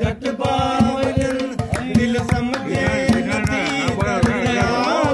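Sindhi folk music: a male voice singing a melody over tabla-like hand-drum strokes.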